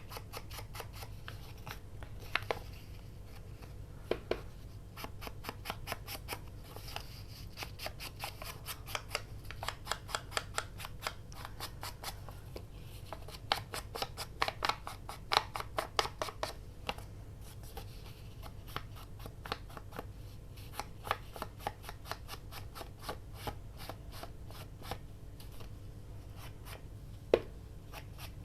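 Rapid run of light clicks and taps, several a second, from hands working on paper at a craft desk, with a few sharper knocks standing out.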